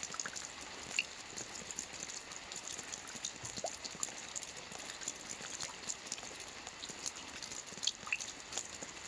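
Soft rain falling on a roof: a steady patter of many small drops, with a few louder single drops about a second in and near the end.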